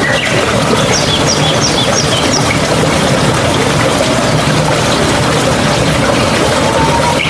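Mountain stream water rushing and gurgling steadily, with a bird giving a quick run of about six short, high chirps a second or so in.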